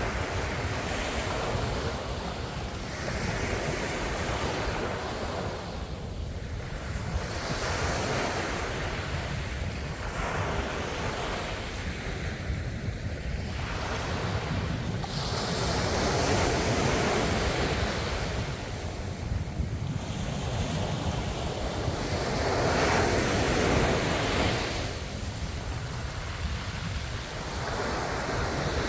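Ocean waves breaking and washing on a shore, a continuous surf that swells and ebbs every few seconds, with a steady low rumble beneath that is likely wind on the microphone.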